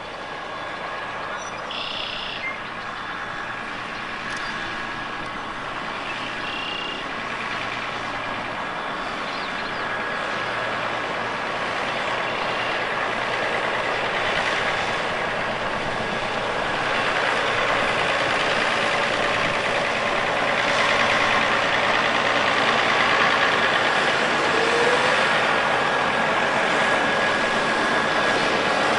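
Antique farm tractor engines running, the sound growing steadily louder over the stretch.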